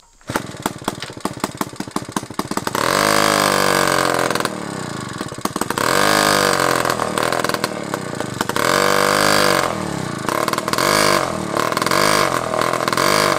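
Small two-stroke Honda moped engine running after years in storage: a fast, even popping idle at first, then revved up and let back down about five times, the pitch rising and falling with each blip of the throttle.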